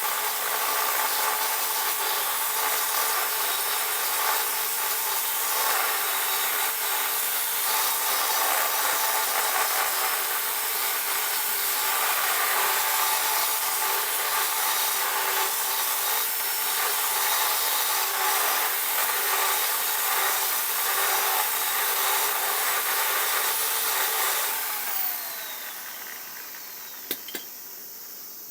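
A power tool running steadily under load, as if cutting or grinding. It is switched off about 25 seconds in and winds down with a falling whine, followed by a couple of light clicks.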